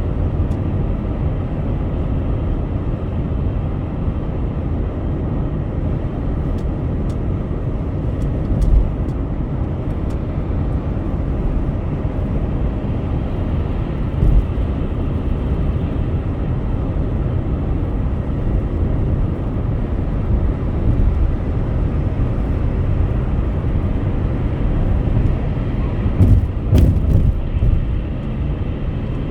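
Car driving at highway speed: steady low tyre and road rumble, with a few short knocks about nine and fourteen seconds in and a small cluster near the end.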